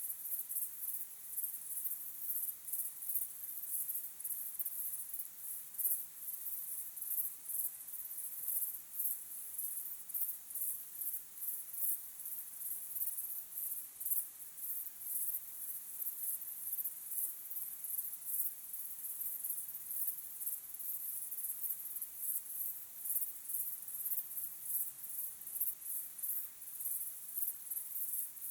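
Crickets chirping in a dense chorus: a continuous run of high-pitched, rhythmic chirps.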